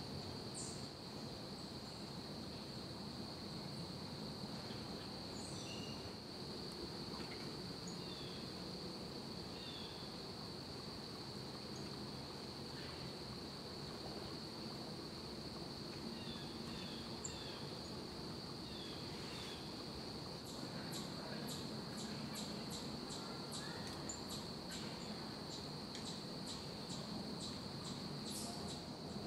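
Steady, high insect trill over outdoor background noise, with small songbirds at a feeder giving scattered short, falling chirps. In the last third a fast run of very high ticking notes comes in.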